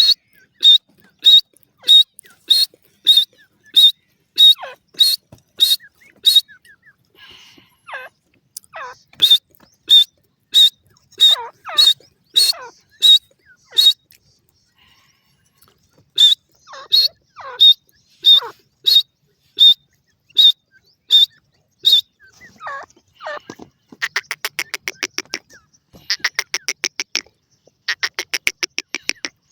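Francolin (teetar) calling: loud, sharp, high-pitched notes repeated about one and a half times a second, then groups of calls with falling sweeps. Near the end the calls give way to fast rattling series of clicks.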